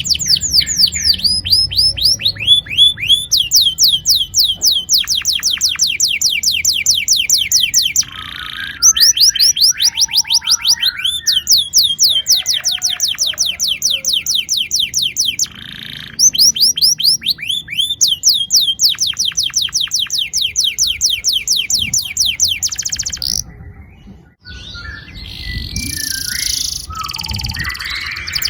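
Domestic canary singing long rolls: long trains of rapid, repeated downward-sweeping high notes, broken twice by short pauses. Near the end the rolls stop, there is a brief gap, and looser, varied chirps follow.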